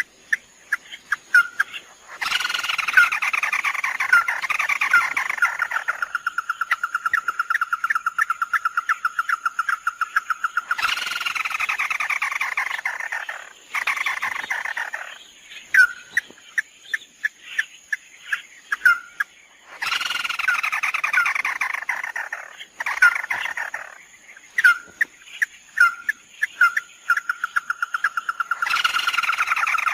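Bird-call lure recording of the bird known in Vietnam as 'mắt đỏ': a harsh, descending chatter that runs into a long, fast trill of even notes, repeating about every nine seconds, with single sharp notes in between.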